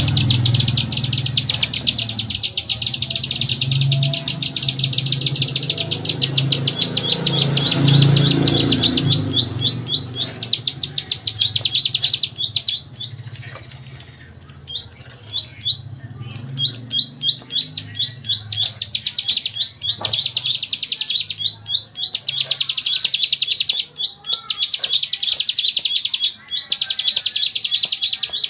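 Small songbird singing a rapid-fire 'tembak' song: fast machine-gun runs of repeated high notes, many to the second. The song is continuous at first, then comes in bursts of a second or two. A low rumble sits underneath for the first third.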